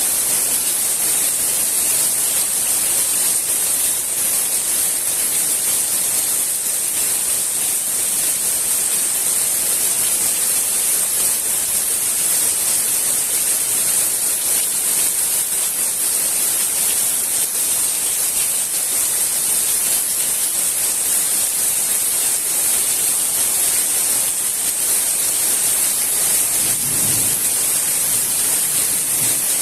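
Heavy rain falling: a steady, even hiss of downpour. A brief low sound comes near the end.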